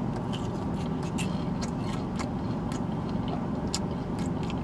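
Chewing a crispy breaded Nashville hot chicken tender: many short crunchy clicks from the mouth, over a steady low hum in the car cabin.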